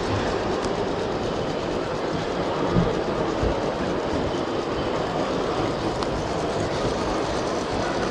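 N-scale model trains running on the layout's track, with a clickety-clack, over the steady noise of an exhibition hall. There are a couple of brief low knocks around the third second.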